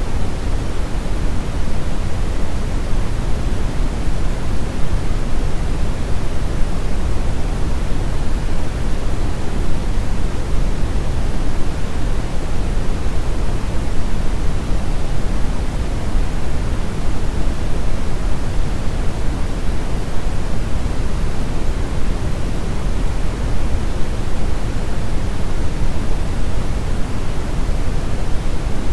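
Steady brown noise: an even, deep hiss that is strongest in the bass and falls off toward the treble, with no change.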